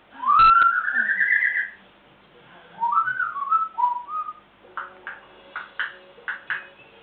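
African grey parrot whistling: a long rising, warbling whistle with a sharp knock at its start, then a run of short wavering whistled notes, followed by several sharp clicks.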